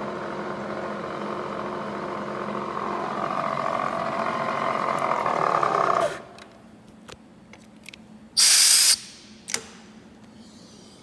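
Milling machine spindle running with a 3/16 inch end mill in a brass workpiece, a steady hum with a whine that builds slightly, then switched off about six seconds in and stopping abruptly. A short, loud hiss follows about two seconds later, with a few small clicks.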